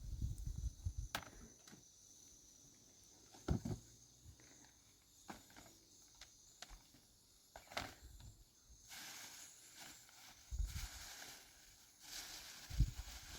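Scattered soft thumps and sharp clicks at irregular intervals. A faint steady hiss comes in about two-thirds of the way through.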